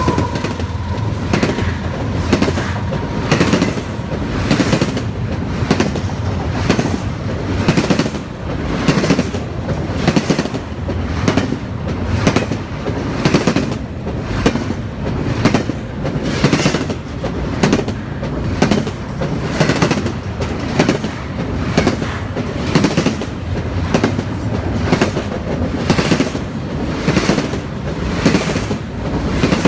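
Double-stack intermodal freight train passing close by, its wheels clacking over the rail joints in a steady, even clickety-clack rhythm under a continuous rolling rumble.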